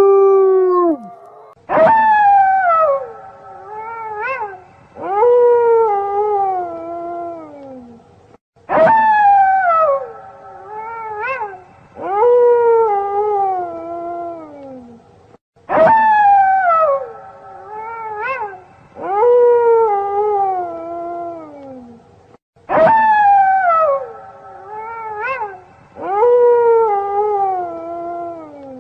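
Wolf pack howling in chorus: a long howl sliding down in pitch, joined by several shorter overlapping howls that rise and fall. The same sequence repeats about every seven seconds, four times, as a looped recording.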